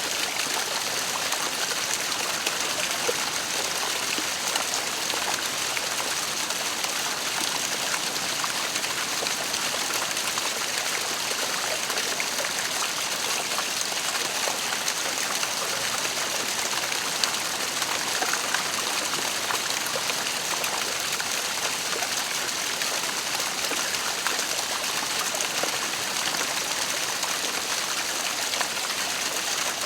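Waterfall splashing steadily, an even rushing hiss of falling water with fine splashes and droplets throughout.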